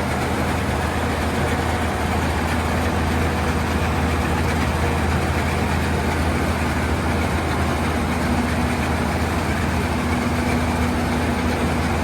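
Case IH Axial-Flow combine harvester's diesel engine running at a steady speed, a constant low hum.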